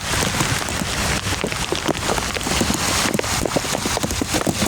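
Heavy rain falling, with a dense run of close drop hits.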